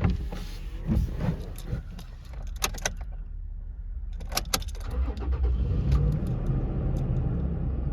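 Car keys jangling with sharp clicks and knocks, as in a key being worked in a Toyota Tacoma's ignition. From about four seconds in, a steady low rumble sets in under the clicks.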